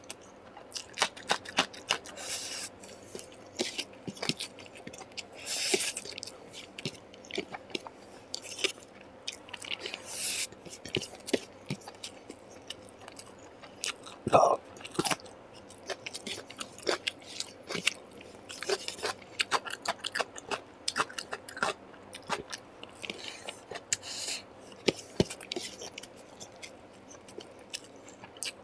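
Close-miked chewing and biting of food, with many wet clicks and crunches, as meat and rice are eaten. There are a few short hissing bursts. About halfway through comes a brief pitched sound, the loudest moment.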